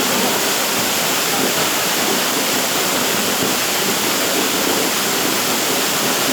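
Waterfall cascading down rock: a loud, unbroken rush of water.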